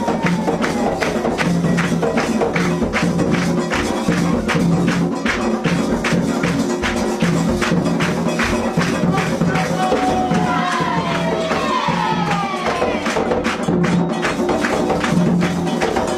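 Percussion music with a steady beat of jingling, rattling strikes, and voices singing over it.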